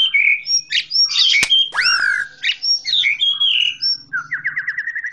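Bird calls: a busy run of chirps and whistled notes, with a sharp click about a second and a half in, a loud whistle that rises and falls about two seconds in, and a fast trill of about ten notes a second near the end.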